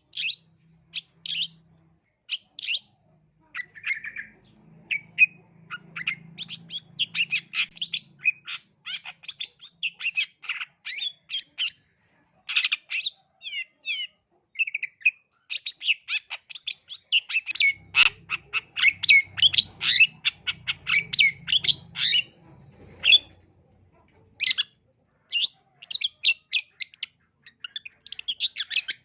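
Long-tailed shrike singing a rapid, chattering song of short sharp chirps and harsh notes in long runs broken by brief pauses.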